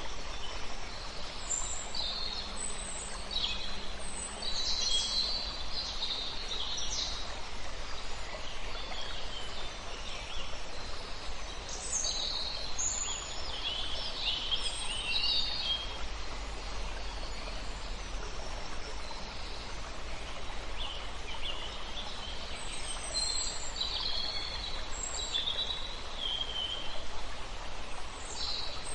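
Several songbirds chirping and trilling in bursts, busiest in the first seven seconds, around the middle, and again near the end. Beneath them is a steady rush of flowing river water.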